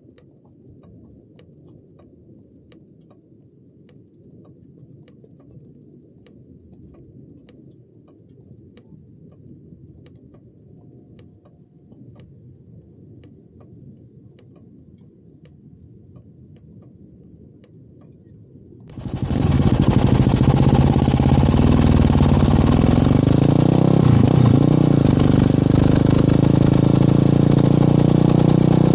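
A quiet low rumble with faint regular ticks, then, about two-thirds of the way in, a motorcycle engine starts abruptly and runs loudly and steadily.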